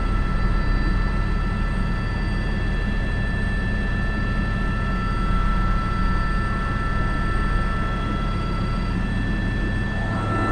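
Airbus H125 (AS350 B3) single-engine helicopter in forward flight, heard from the cockpit, carrying an underslung sling load. A steady turbine whine made of several high tones sits over a constant low rotor and engine drone.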